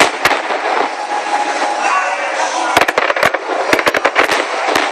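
Aerial firework shells bursting: two sharp bangs at the start, then a rapid run of bangs and crackles from about three seconds in, over steady background noise.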